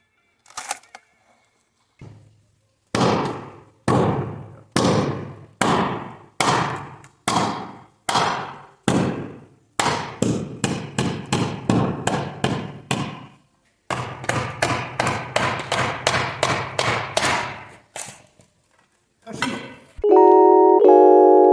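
Repeated hammering blows during hand-tool work, about one a second at first, then quicker at two to three a second, before they stop. Music comes in near the end.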